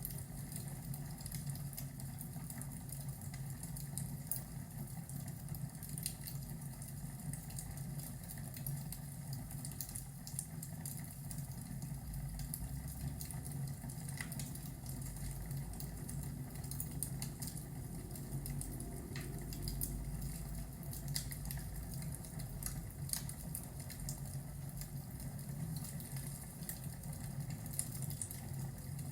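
Fireplace and thunderstorm ambience: a log fire crackling with scattered small pops over a steady rain-like hiss and low hum. Twice a low thunder rumble swells up and fades.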